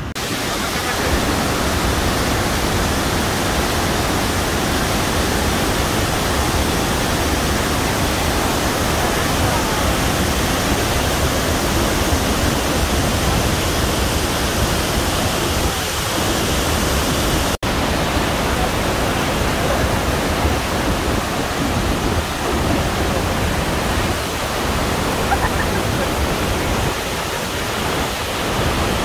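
Iguazu Falls: a loud, steady rush of falling water, with a momentary break a little past halfway.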